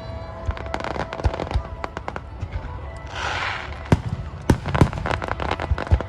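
Aerial fireworks exploding in a rapid, uneven string of sharp bangs. About three seconds in there is a hissing crackle, and the loudest bangs come in the second half.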